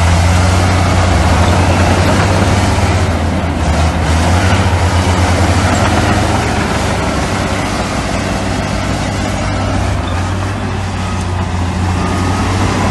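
Heavy diesel engine of earthmoving machinery running steadily with a deep low drone, easing off a little about halfway through.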